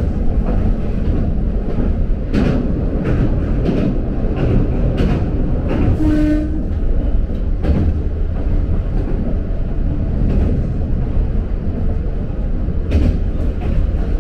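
Toyama Chiho Railway electric train running: a steady low rumble with irregular clicks of the wheels passing over rail joints, and a brief tone about six seconds in.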